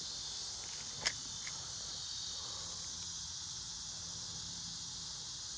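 Outdoor insect chorus: a steady, high-pitched hum without pauses. A single sharp click sounds about a second in.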